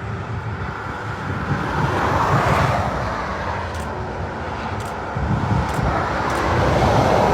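Motorway traffic passing at speed, a steady rumble of tyres and engines that swells as a lorry goes by about two and a half seconds in and again near the end, with some wind on the microphone.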